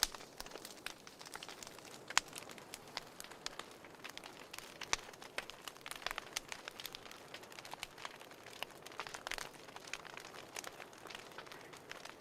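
Fireplace crackling: irregular sharp pops and snaps, several a second, over a soft steady hiss.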